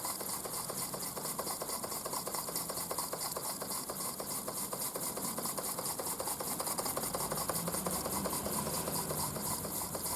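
Mamod SP8 model steam beam engine running slowly under its own steam, with a quick, even beat that holds steady throughout.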